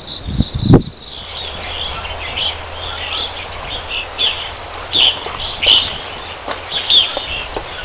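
Small birds chirping outdoors: short high chirps repeating about once or twice a second over a steady low rumble. Two or three low thumps come in the first second, before the chirping starts.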